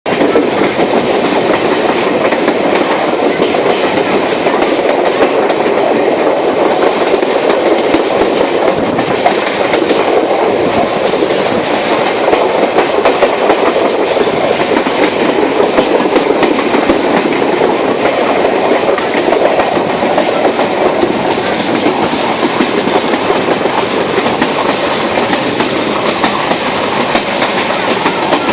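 Moving train heard from on board: a steady, loud rumble and clatter of wheels running over the rails.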